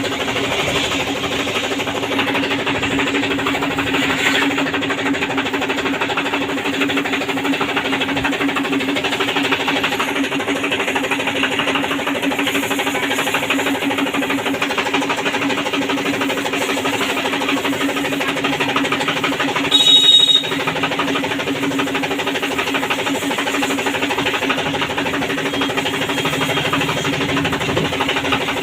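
Washing machine motor running with a steady hum. A brief high-pitched tone sounds about twenty seconds in.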